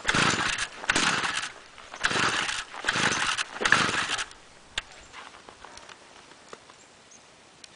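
Stihl FS-45 two-stroke string trimmer being pull-started from cold: five quick pulls of the recoil starter cord in a row, and the cold engine does not catch. A few faint clicks follow.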